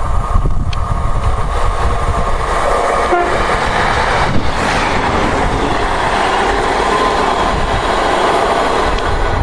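A train passing close by, loud and steady.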